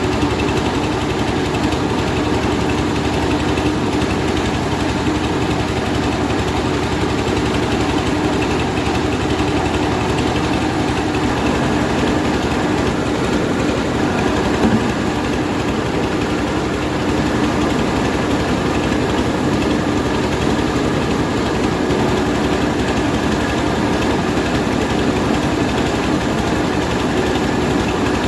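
Rice milling machine running steadily while milling half-dried paddy, a continuous mechanical drone with a constant hum.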